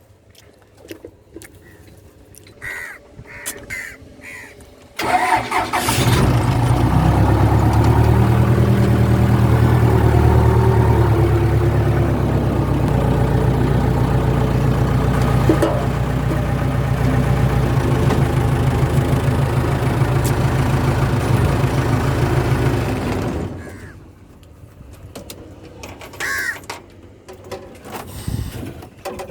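A vehicle engine starts suddenly about five seconds in, runs at a steady idle for about eighteen seconds, then stops. Crows call before it starts and again after it stops.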